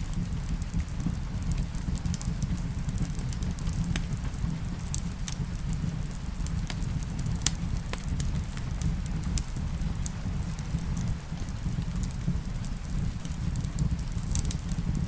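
Crackling fireplace, with irregular sharp pops and snaps, over a steady low wash of rain. One louder pop comes about halfway through.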